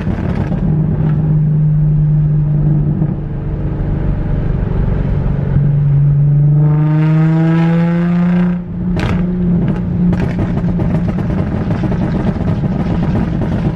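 Nissan 350Z's 3.5-litre V6 pulling under acceleration. The engine holds a steady hum, then climbs in pitch for about three seconds past the middle. It drops briefly at a gear change with a sharp crack, then carries on at a steady higher note.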